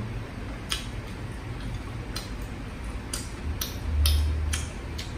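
Close-miked eating sounds of a person chewing prawn: scattered sharp, wet mouth clicks, about six over a few seconds, over a low hum that swells briefly about four seconds in.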